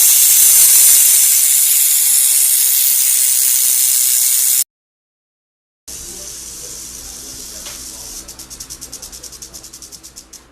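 Rattlesnake's tail rattle buzzing loudly in a steady dry hiss, cutting off after about four and a half seconds. After a short silence a fainter rattle starts and, near the end, breaks up into a fast series of separate clicks that fade away.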